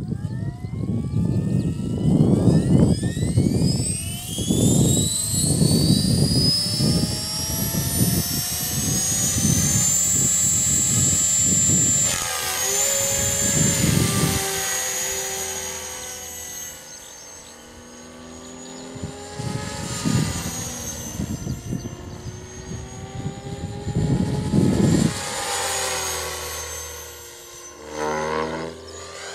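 CopterX 500 electric RC helicopter spooling up, its motor and rotor whine rising steadily in pitch over about the first ten seconds, then running at flying speed with the whine wavering. Gusty wind rumbles on the microphone in the first half.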